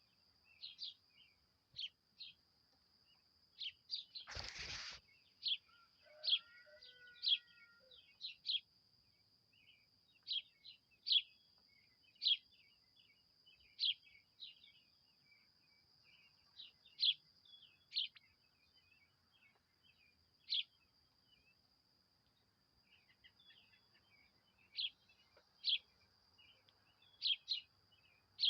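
Wild birds calling: short, sharp, high chirps repeated irregularly over a steady high-pitched hum. About four and a half seconds in there is a brief burst of noise, followed by a short, lower two-note call.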